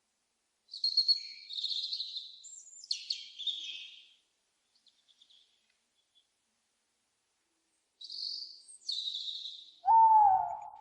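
Owl calls: two bouts of high-pitched screeching calls, then one loud, lower hoot near the end.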